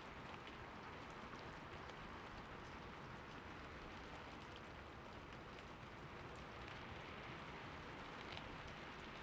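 Steady rain falling, a soft even hiss with scattered individual drops ticking close by.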